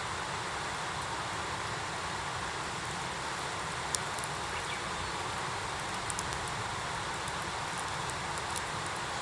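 Wood fire burning in an iron fire pit: a steady hiss with scattered sharp crackles and pops, the loudest pop about four seconds in.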